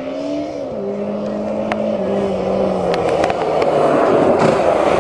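Motorcycle engine of a home-built dune buggy running under load with a slipping clutch. Its pitch rises briefly, then falls in steps. From about halfway a rushing noise grows louder as the buggy comes nearer, with a few sharp clicks.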